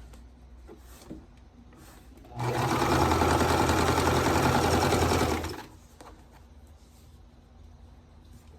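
Electric sewing machine stitching a short seam across the corner of a quilt piece: one run of about three seconds, starting a little over two seconds in and stopping near the middle.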